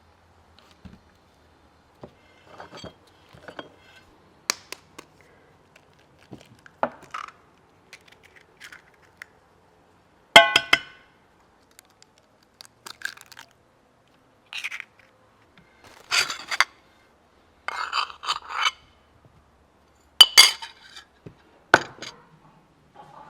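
Dishes and kitchen utensils clinking and scraping in short separate knocks. The loudest come about ten seconds in and again near twenty seconds, the first with a brief ring.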